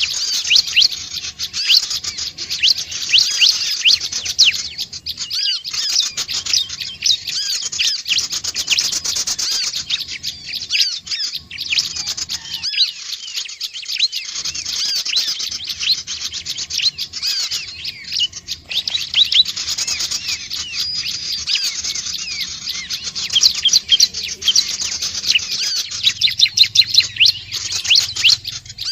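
Prinia (ciblek, also called prenjak or sogon) calling in a fast, continuous string of short, high chirps, thinning briefly a couple of times.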